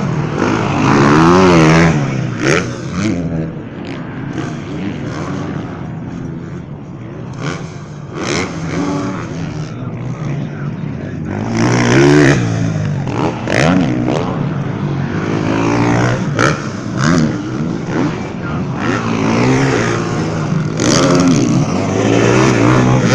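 Motocross bike engines revving hard, pitch rising and falling again and again as the bikes accelerate and back off, with scattered sharp cracks among them.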